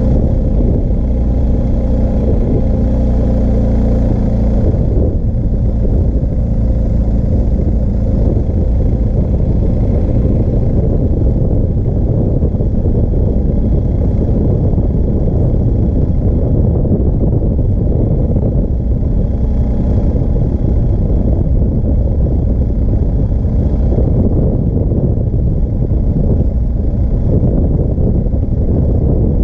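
BMW R1250GS Adventure's boxer-twin engine running at low riding speed, with a steady low rumble of wind and road noise over it. The engine note is clear for the first few seconds, then turns rougher and noisier.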